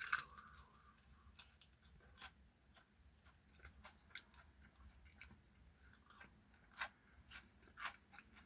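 Faint chewing and crunching of crispy fried chicken ribs, with irregular crackles from the coating and a few louder crunches about two seconds in and again near the end.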